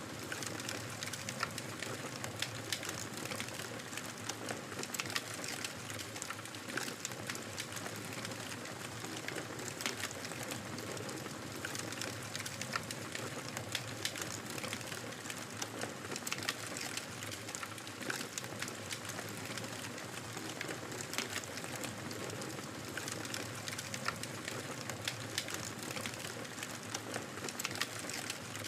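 Fireplace fire crackling: a steady hiss with frequent small, sharp pops and snaps.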